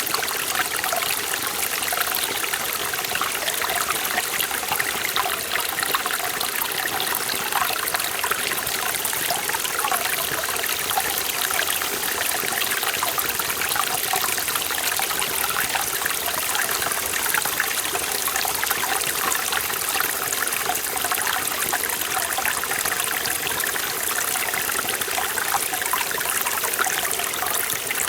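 Forest valley stream flowing and trickling over rocks, a steady rush of water with small splashing gurgles.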